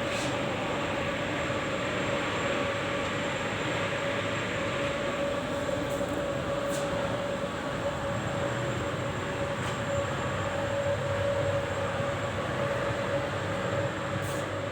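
HVAC plant running: air-handling fans and motors giving a steady, even rush with a constant mid-pitched hum through it.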